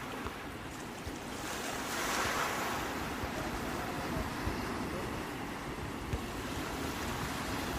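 Sea waves washing on the shore, swelling into a louder break about two seconds in, then a steady wash. A low rumble of wind on the microphone runs underneath.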